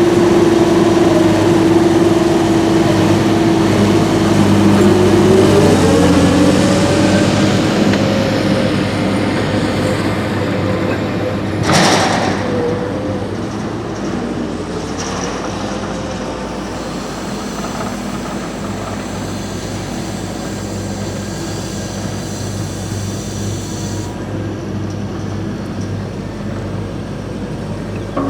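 Heavy diesel machinery running steadily, with a whine whose pitch rises about five seconds in and the sound slowly getting quieter. A short, sharp hiss about twelve seconds in.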